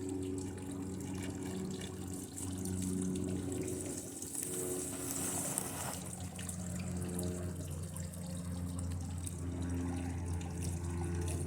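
TV circuit board burning under high current from a lead-acid battery: a crackling sizzle over a low electrical buzz whose pitch shifts in steps.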